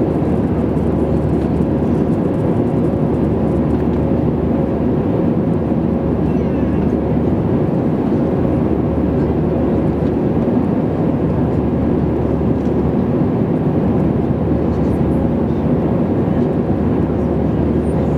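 Steady airliner cabin noise: an even, low rumble of the jet engines and airflow, with a faint steady hum, unchanging throughout.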